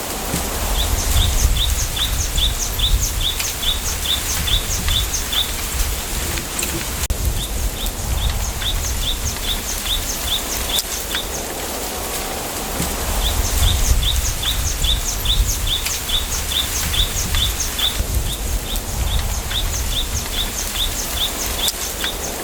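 Wind moving through a bamboo grove, a steady rustling hiss with a low gusty rumble, while a small bird repeats one short high note about three times a second in spells of several seconds, breaking off briefly and starting again.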